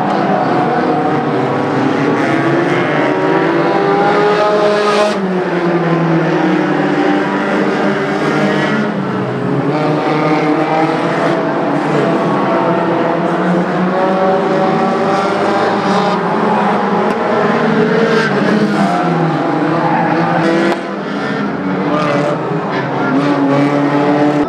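Several oval-track racing car engines running hard together, their pitches rising and falling as they lap, with overlapping engine notes throughout.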